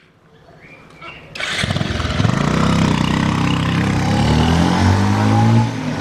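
Motorcycle engine starting about a second and a half in, then running loudly with its pitch rising and falling as the bike pulls away.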